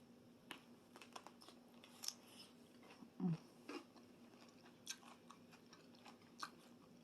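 Faint close-up chewing and crunching of a cucumber boat salad topped with croutons, with irregular wet mouth clicks and crackles. A short low hum from the eater comes about three seconds in.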